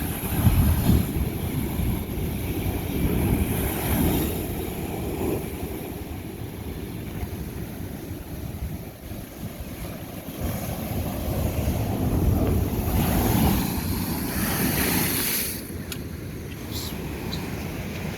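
Ocean waves breaking and washing over lava rock, rising and falling in surges, with wind buffeting the microphone. A few brief high clicks near the end.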